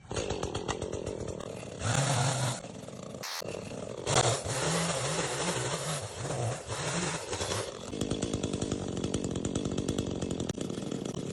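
Chainsaw running and revving up to full throttle twice, cutting through storm-fallen tree branches, then settling back to a steady idle about eight seconds in.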